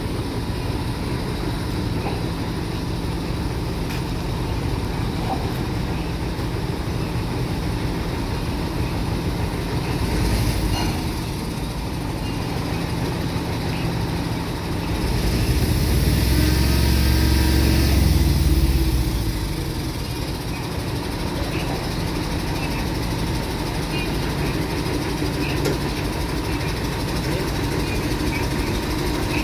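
Heavy vehicle engine rumbling steadily, with a louder vehicle passing about fifteen to nineteen seconds in, its pitch falling as it goes by.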